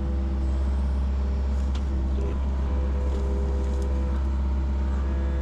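Yanmar SV40 mini excavator's diesel engine running steadily under hydraulic load while the ripper tooth works through a stump's roots, its pitched whine stepping about a few times as the controls move.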